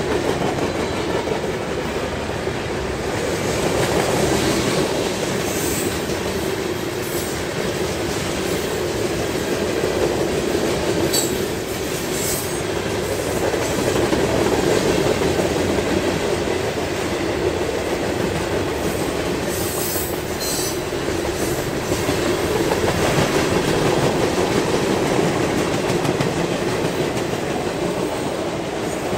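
CSX freight train's cars rolling past close by: a steady rumble and clatter of wheels on the rails, with a few short, high-pitched wheel squeals.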